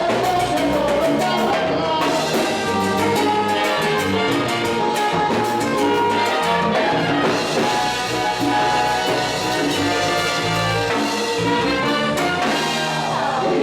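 Live salsa orchestra with a brass section and Latin percussion playing the closing bars of a romantic salsa song, with the trumpets prominent. The music holds full and steady, then ends on a final hit right at the end.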